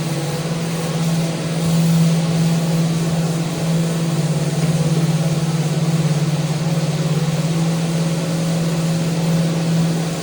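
Electric power sander running steadily against a mounted handrail: a constant motor hum with the hiss of abrasive on the rail, swelling slightly as the pressure changes.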